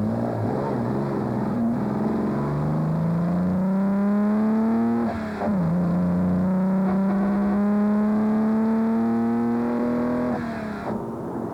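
Classic sports car engine accelerating, its pitch climbing steadily, falling sharply at a gear change about five seconds in, then climbing again before dropping near the end.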